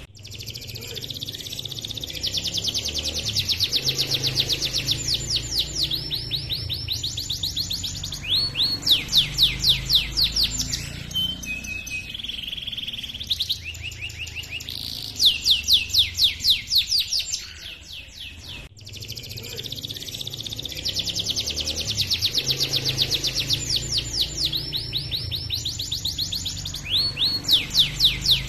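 Domestic canary singing a long rolling song of fast trills: runs of many quick repeated high notes, phrase after phrase with brief pauses. The song breaks off about 18 seconds in, and the same sequence of phrases starts over.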